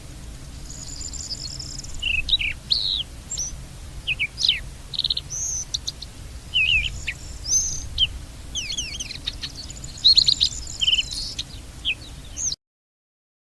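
Songbirds chirping in a busy chorus of quick, mostly downward-sweeping chirps over a low steady background rumble. The sound cuts off abruptly about a second before the end.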